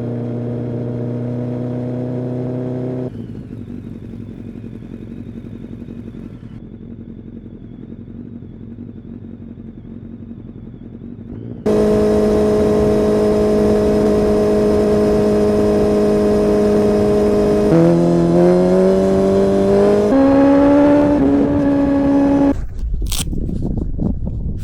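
Kawasaki ZX-10R inline-four engine and exhaust held at steady revs, with abrupt changes between loud and quieter stretches. Near the end the revs rise in a few steps and then drop back.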